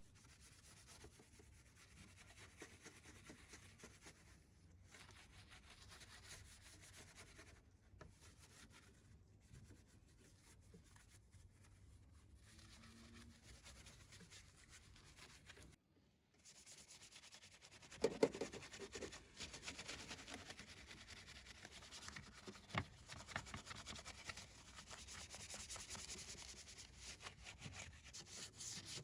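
Brushes scrubbing degreaser-covered engine bay parts: a faint, steady rubbing that breaks off briefly past the middle, then returns louder and more uneven.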